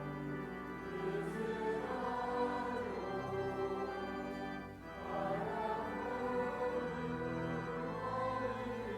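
Choir singing a hymn in long held phrases, with a short break about halfway through.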